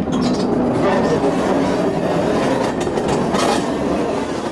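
British Rail 4-CEP slam-door train running along jointed track, its wheels rumbling on the rails, heard from an open window, with a few clicks as the wheels cross rail joints.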